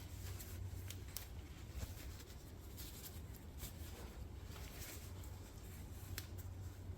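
Scattered light clicks and handling noises of hands working a rubber CV boot onto an ATV's CV axle, over a steady low hum.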